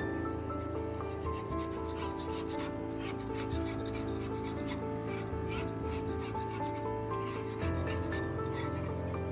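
Repeated rasping strokes of hand filing or sanding on metal, over background music with sustained melody notes.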